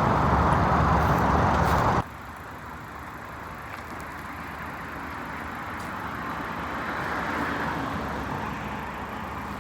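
Car and road-traffic noise: a loud, steady running sound for about two seconds, cutting off sharply to a quieter traffic hum that swells and fades once around the middle, like a car going by.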